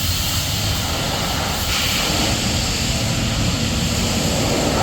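Steady rushing roar over a low, even diesel drone from a semi truck.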